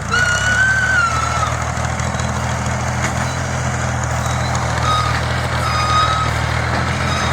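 Tractor diesel engine running steadily. A high, thin tone sounds over it for about a second and a half at the start and again briefly past the middle.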